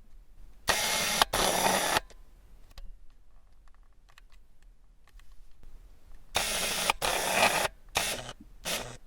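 Camera shutter clicks in noisy bursts: a pair about a second in, another pair around six and a half seconds in, and two shorter ones near the end.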